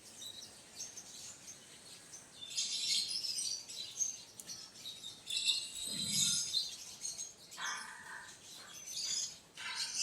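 Quail chirping in several short bursts of high calls, with lower calls in between.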